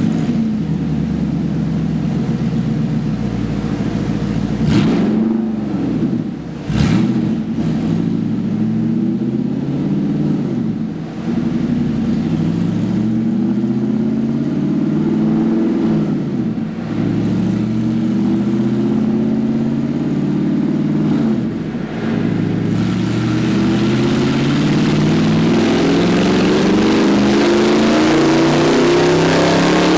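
Audi R8's 4.2-litre V8 through straight-pipe exhaust: idling with a string of short throttle blips, the first two about 5 and 7 seconds in ending in sharp cracks, then from about 23 seconds a long, steady climb in revs.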